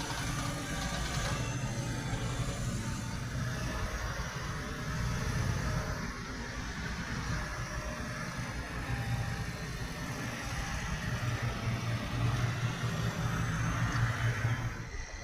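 Tractor diesel engine running steadily, growing a little louder near the end.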